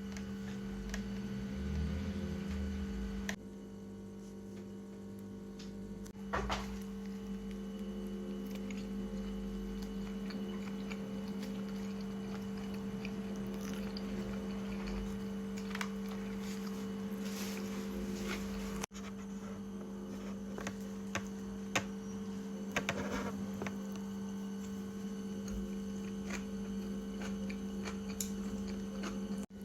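Steady electrical hum throughout, with a few short bursts of eating noises, biting and chewing, now and then.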